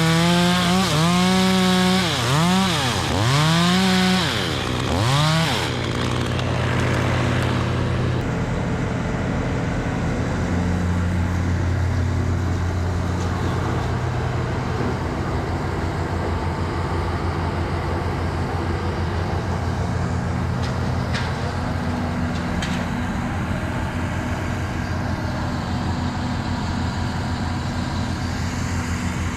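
Chainsaw running at full throttle, the revs dropping and climbing back three or four times, then falling away after about five seconds. A steady, lower engine hum carries on after that.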